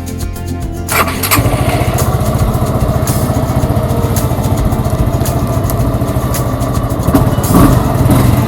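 Suzuki Gixxer 150's single-cylinder engine starting about a second in, freshly filled with new oil, then idling with an even pulse and getting louder near the end.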